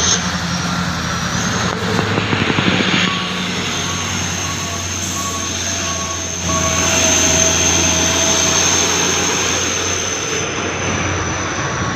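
Heavy diesel truck engine running hard, with a steady high whine over it. It grows louder about six and a half seconds in.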